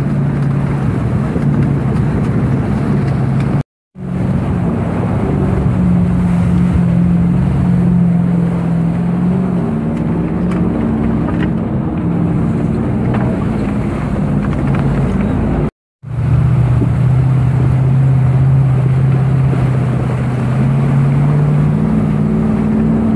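Engine running with a steady drone whose pitch shifts slowly up and down, over a constant rushing noise. The sound cuts out abruptly twice, about 4 seconds in and again about 16 seconds in, then resumes.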